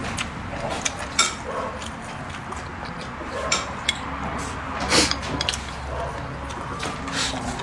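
Close-up eating sounds: wet chewing and sharp crunches, with chopsticks clicking against a ceramic bowl as food is picked up. There are a series of short crisp clicks, the loudest about five seconds in.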